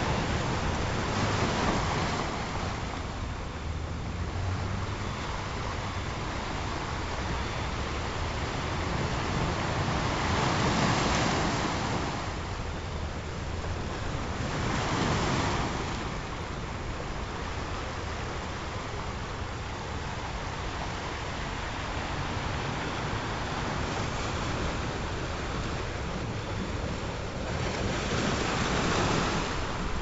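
Ocean surf: a continuous rush of waves breaking and washing in, swelling louder and ebbing as each big wave comes through.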